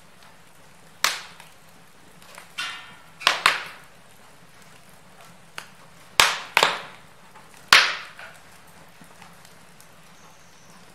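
Wood fire crackling in a fireplace: about eight sharp pops and snaps at uneven intervals, the loudest about a second in and between six and eight seconds, over a faint steady hiss.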